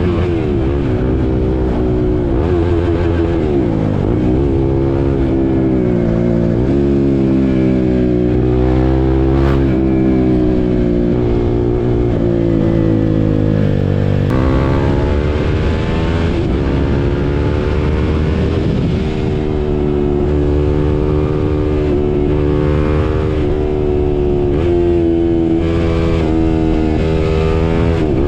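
KTM RC 390's single-cylinder engine under way, its pitch repeatedly climbing as it accelerates and dropping back at gear changes or when the throttle eases.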